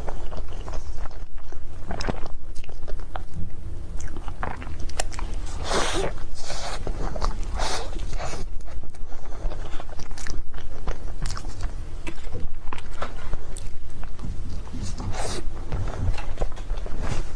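Close-up sounds of a person biting and chewing Korean-style cake: irregular soft bites, small crunches and wet mouth sounds, over a steady low hum.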